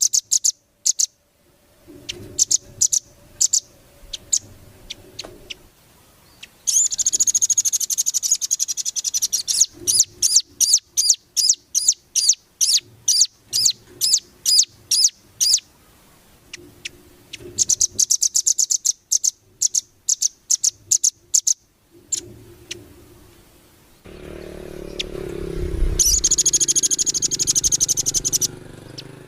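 Songbird singing in phrases of dense high trills and quick repeated chirps, about three chirps a second in the middle, with short pauses between phrases: a masteran, a recorded tutor song for training caged songbirds. A low rumble runs beneath the song near the end.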